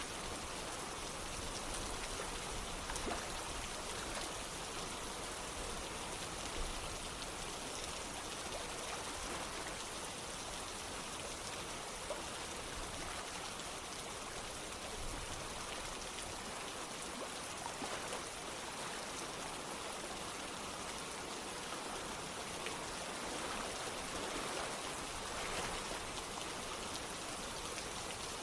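Steady rain falling together with running water, a constant wash with faint scattered drop ticks.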